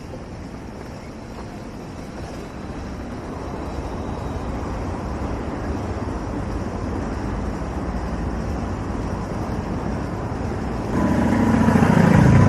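Street traffic: a car's rumble builds gradually. Near the end a vehicle engine close by becomes much louder.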